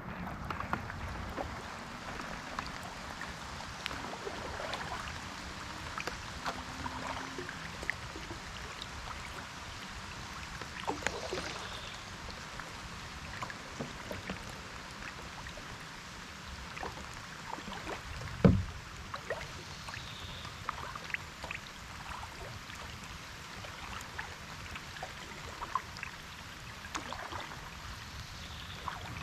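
Kayak paddling in light rain: water splashing and dripping off the paddle with scattered small ticks of drops, and one louder thump about two-thirds of the way through.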